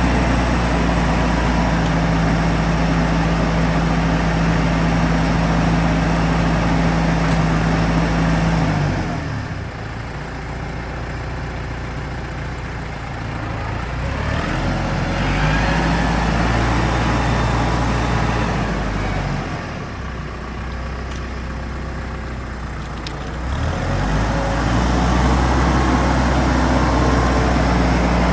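A 2013 Massey Ferguson 2680 tractor's diesel engine running at raised revs, then dropping to a lower speed about nine seconds in. It revs up again at around fourteen seconds, falls back at around twenty, and rises once more at around twenty-four.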